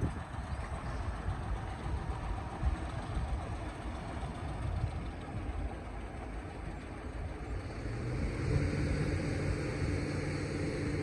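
Excavator diesel engine running with a rough low rumble. About eight seconds in, it settles into a steadier, slightly louder engine note.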